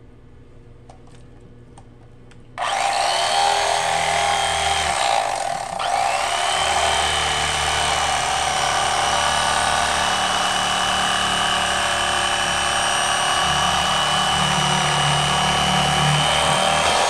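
Electric fillet knife switched on about two and a half seconds in, its motor and reciprocating blades running with a steady whine as it cuts a catfish fillet away from the skin. The motor dips briefly once, and the low hum shifts as the blade meets the flesh.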